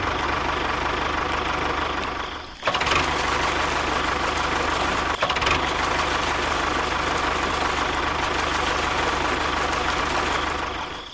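A small motor running steadily with a constant whine. It drops out briefly about two and a half seconds in and fades near the end.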